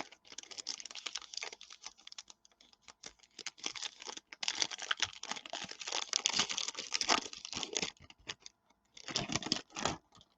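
Trading cards and their pack being handled: rapid clicking and rustling of card stock and wrapper, densest from about four to eight seconds in and again briefly near the end.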